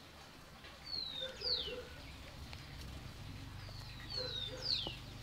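A bird calling twice, about three seconds apart, each call a pair of quick, sharp falling whistles. A low steady hum comes in about three seconds in.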